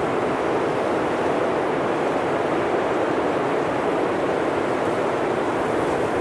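Blizzard wind blowing steadily through a forest, a dense even rush with no gusts or breaks.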